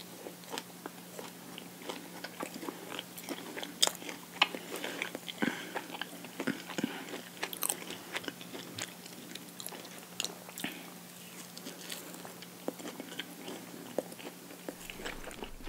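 Close-miked biting and chewing of peanut-butter-and-jelly toast: irregular sharp crunches and wet mouth sounds. A faint steady low hum runs underneath.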